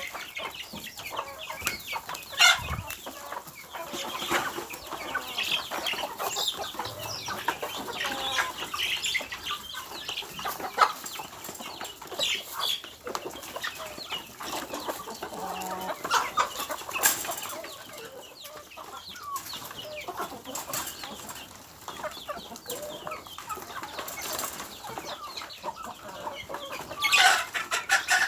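Chickens clucking, with many short sharp clicks and knocks throughout and a louder flurry near the end.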